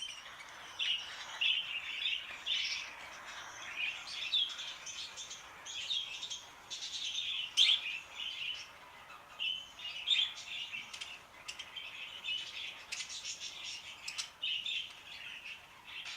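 A flock of budgerigars chattering: continuous fast chirps and warbling calls with short sharp squeaks.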